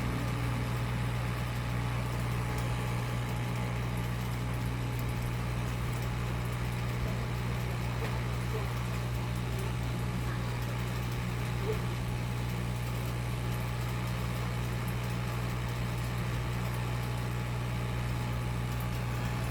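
Hot air rework station's blower running steadily, with a low hum under an even rush of air, as it heats a voltage regulator for resoldering.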